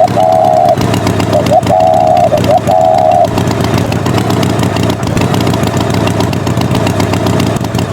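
A tractor engine sound effect running steadily, with a short wavering tone sounding three times in the first three seconds.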